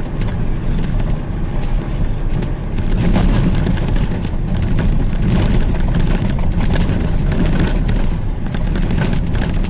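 Dump truck's engine running under way, a steady low rumble heard from inside the cab, with scattered rattles.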